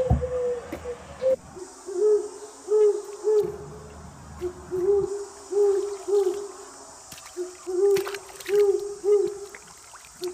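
A bird's low, repeated hooting calls, short notes in groups of two or three, with brief water splashes in the second half.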